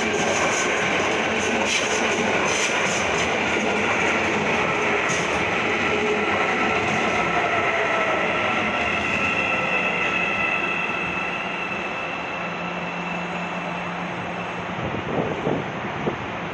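Electric metro train running on the station tracks: wheels clicking over rail joints and a whine that falls in pitch, the sound easing off in the last few seconds.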